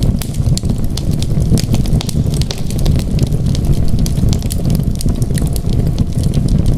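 Wood fire crackling, with frequent short sharp pops and snaps over a steady low rumble of the flames.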